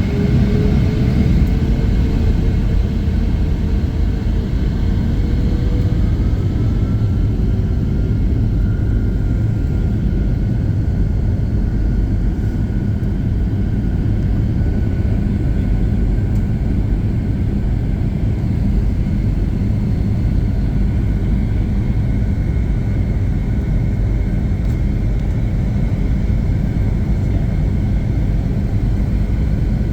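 Boeing 757-200 jet engines spooling up for takeoff: a heavy steady rumble with a whine that rises in pitch over the first several seconds and then holds steady at takeoff power.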